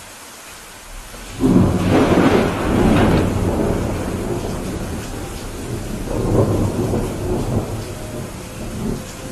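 Steady rain with a thunderclap breaking in about a second and a half in, a crackling rumble that rolls on and fades, then swells again briefly near the middle.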